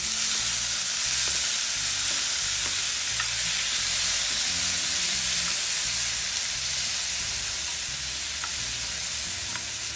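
Freshly added chopped tomatoes sizzling steadily in hot oil in a non-stick frying pan while a wooden spatula stirs them. The sizzle eases off slowly toward the end.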